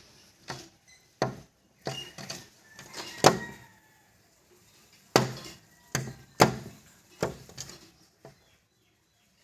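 A series of irregular sharp knocks and thumps, about a dozen, unevenly spaced, with the loudest a little past the middle.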